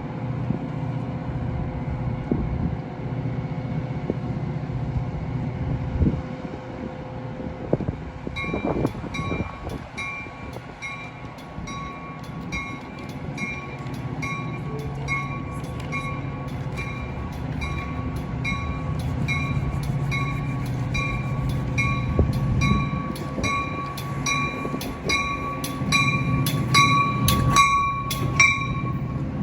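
Metra commuter train rumbling through the station. About eight seconds in, a bell starts ringing steadily, a little faster than once a second, and keeps on, with a few sharp metallic clicks near the end.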